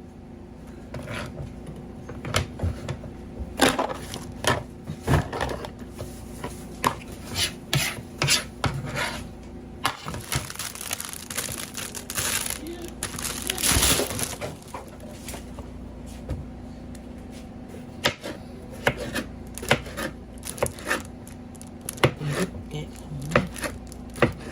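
Kitchen clatter: irregular knocks and clicks of dishes, utensils and a cutting board, busiest about halfway through, over a steady low hum.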